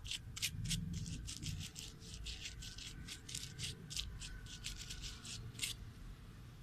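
Quick, short rubbing strokes on a torn sneaker under repair, about four a second, stopping about a second before the end.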